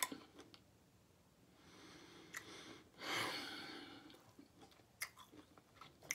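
Close-miked chewing of a mouthful of smoked turkey leg meat, with small wet mouth clicks and a louder breath out about three seconds in.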